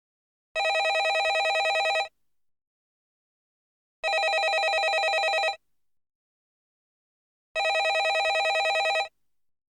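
Landline telephone ringing: three rings of about a second and a half each, one every three and a half seconds, with silence between them and a fast warble through each ring.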